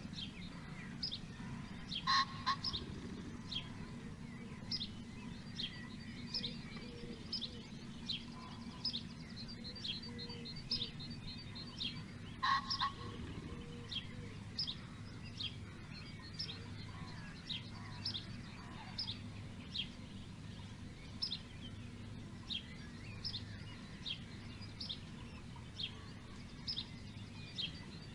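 Birds singing: short high chirps repeating about once a second, with a few quick trills and two louder, lower calls about 2 and 12 seconds in, over a steady low rumble.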